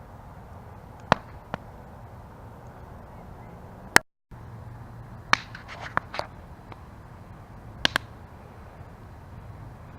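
Wood campfire burning with a steady low rush and irregular sharp crackles and pops, including a quick cluster a little past the middle and a close pair near the end. The sound cuts out completely for a moment about four seconds in.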